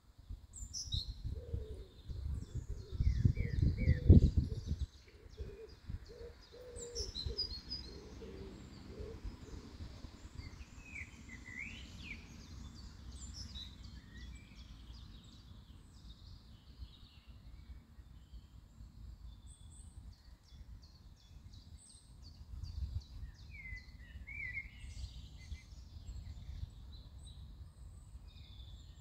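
Songbirds calling and chirping in the surrounding trees, short high chirps and trills through the whole stretch. A low, irregular rumble, loudest about four seconds in, sits under the birds for the first five seconds and comes back more weakly near the end.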